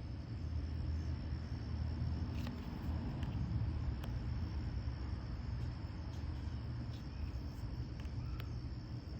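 Steady low background rumble under a constant thin high whine, with a few faint, scattered clicks of oracle cards being handled.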